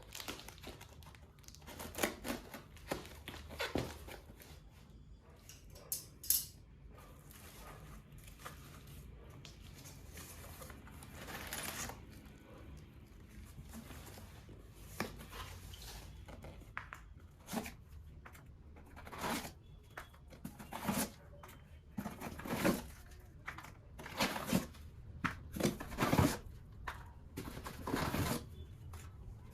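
Household handling sounds: short scrapes, rustles and knocks at irregular intervals in a small room.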